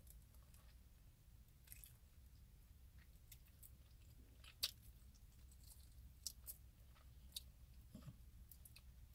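Faint mouth sounds of a person chewing bacon-wrapped quail: scattered short wet smacks and clicks, the loudest a little before halfway, over a steady low hum.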